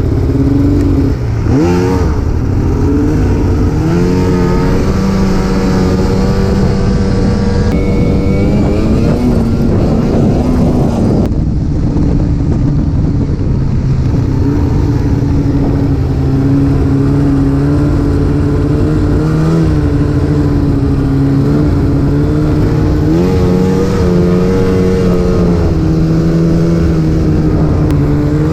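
Snowmobile engine running at speed on the trail, its pitch rising and falling a few times with the throttle, over a low rumble of wind and track noise.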